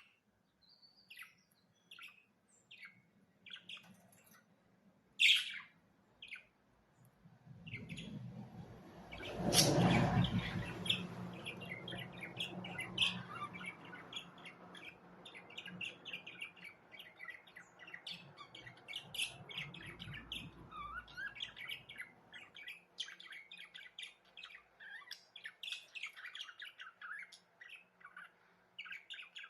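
Budgerigars chirping: a few separate chirps at first, then a steady stream of busy chattering and warbling from about twelve seconds in. A louder burst of noise comes about eight seconds in and dies away over a few seconds.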